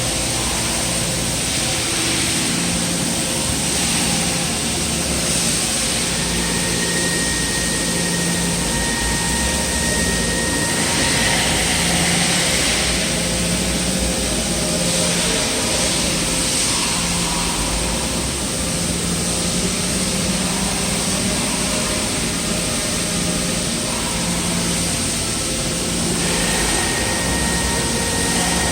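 Niles-Simmons N50MC heavy-duty CNC turn/mill center running, a steady machine noise with a constant hiss. A low hum swells and fades about once a second, and a thin high whine comes in about six seconds in and again near the end.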